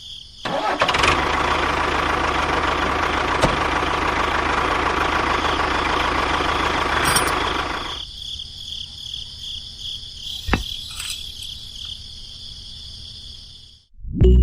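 The mini tractor's small motor starts about half a second in, runs steadily, and stops about eight seconds in. A steady high chirring of crickets runs throughout, and there is a single knock after the motor stops.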